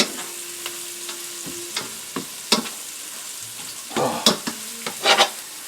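Shallots and garlic sizzling in butter in a stainless steel pan, with a utensil scraping and clicking against the pan as they are stirred. The scrapes come thicker near the end.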